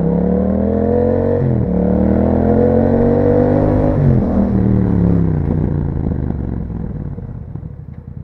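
Yamaha MT-07's parallel-twin engine through an Akrapovic exhaust, accelerating hard with two quick gear changes: the pitch climbs, drops briefly about one and a half seconds in and again about four seconds in, then climbs once more. After that the engine winds down with a falling pitch and settles to a low, pulsing note near the end.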